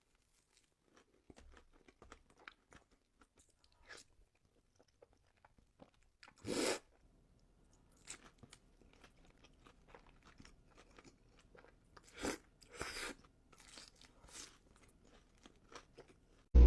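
Close-up eating sounds: crunchy bites and chewing of a fried Korean corn dog, with sparse crunches. The loudest crunch comes about six and a half seconds in, and a few more follow around twelve to thirteen seconds.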